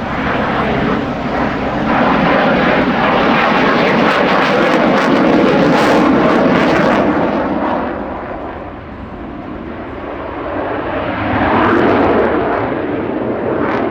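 Alenia Aermacchi M-346 Master jet trainer's twin turbofan engines at a display pass, a loud jet noise that swells over the first seconds, fades in the middle and swells again near the end as the jet comes round.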